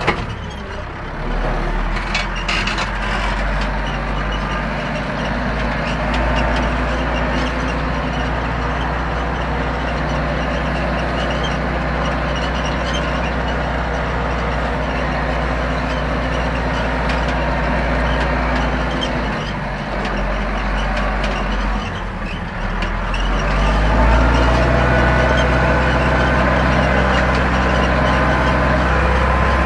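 Zetor 7245 tractor's four-cylinder diesel engine running steadily under load while ploughing. The note dips and changes a little past two-thirds of the way through, then comes back louder and steadier.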